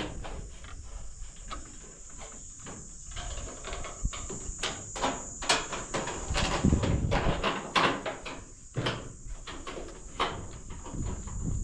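Irregular knocks and handling clatter, thickest in the middle, over a steady high-pitched hum.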